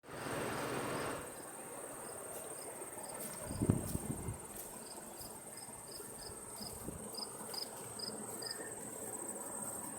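Insects, crickets by their sound, chirping: a steady high trill with short chirps repeating about two to three times a second. A brief rush of noise comes in the first second and a low thud about three and a half seconds in.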